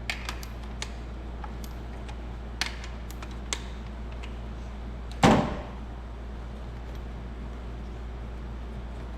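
A few light clicks and taps, then one louder clunk about five seconds in, from tools and parts being handled, over a steady low hum.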